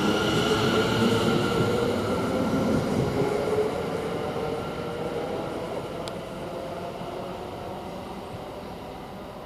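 Class 720 electric multiple unit, two units coupled, pulling out and moving away: traction motor whine of several steady tones over wheel and rail rumble, fading steadily from about four seconds in. A single sharp click about six seconds in.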